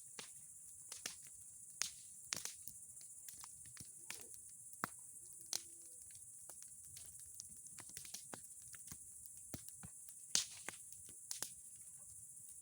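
Bonfire of old boards and pine cones crackling: irregular sharp pops and snaps, the loudest a little past halfway and near the end, over a steady high hiss.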